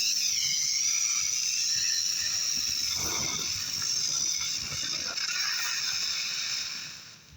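Ground spinner fireworks whistling and hissing as they spin, their high pitch wavering up and down, then dying away near the end.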